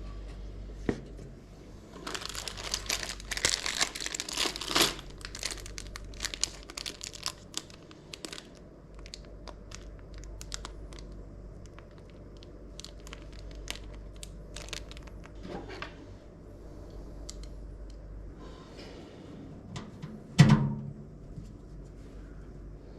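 Packaging for PC parts being crinkled and pulled open, a dense burst of crackling that thins to scattered crackles. Near the end there is a single thud, the loudest sound.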